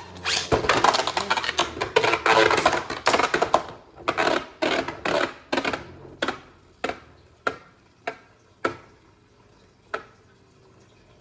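Two Beyblade Burst spinning tops clashing in a plastic stadium: a rapid clatter of hits and rattling for the first three and a half seconds, then single sharp clicks at widening gaps as the tops lose spin, the last about ten seconds in.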